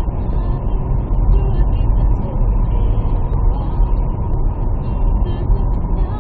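Steady low rumble of a moving vehicle, with engine and road noise throughout.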